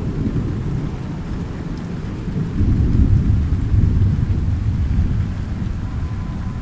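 Thunder rumbling low under steady rain. The rumble swells about two and a half seconds in, then eases off toward the end.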